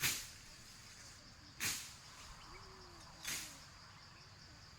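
Three short swishing or scraping strokes about a second and a half apart, over the steady high drone of insects.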